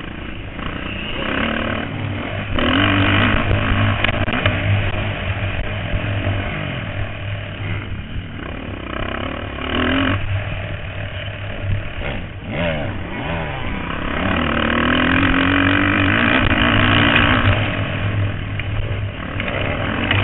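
Motocross bikes racing on the track, their engines revving up and down through the gears as they pass, growing louder three times as riders come close.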